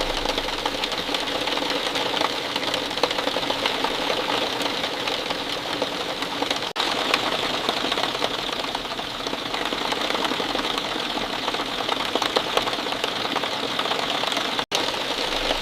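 Steady falling rain, a dense patter of many small drops. The sound cuts out for an instant about seven seconds in and again near the end.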